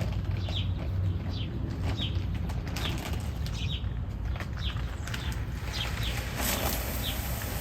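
A backyard songbird calling repeatedly: short, high chirps that slide downward, about every half second. Brief rustling comes twice.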